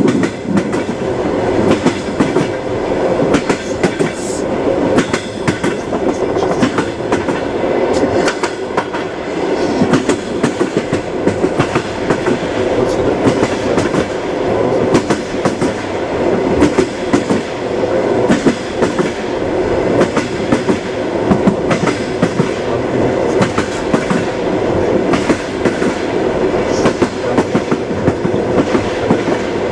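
Train wheels clattering over rail joints: continuous rumble of a moving railway carriage with frequent clicks and knocks.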